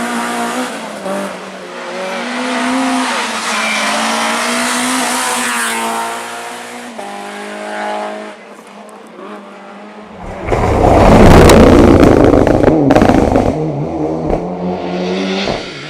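Rally car engines revving hard, their pitch climbing and dropping with each gear change. About two-thirds of the way in comes a loud, rough rush of noise lasting about three seconds, the loudest part, before engine sound returns near the end.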